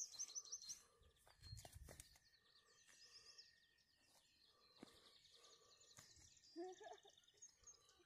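Faint birdsong: a songbird repeating quick runs of high chirps in several short bouts. A brief low rumble comes about a second and a half in.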